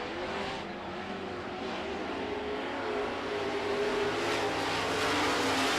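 Several Super Truck race trucks' engines running at racing speed, their notes overlapping and wavering in pitch, growing louder from about halfway through as the pack comes closer.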